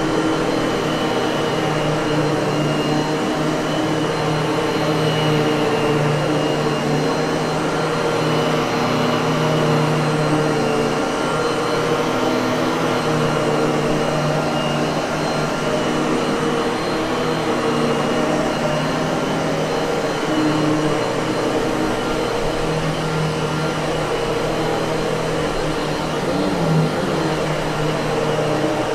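Miele vacuum cleaner running steadily: a continuous motor hum and whine over rushing air, with a slight wavering in pitch and a brief bump near the end.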